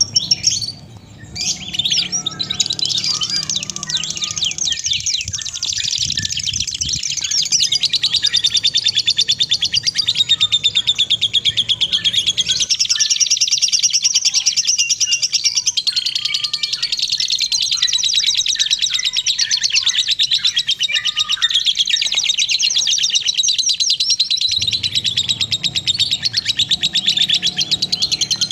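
A songbird singing a long, fast, continuous chattering song of rapid high-pitched notes, with a short break about a second in.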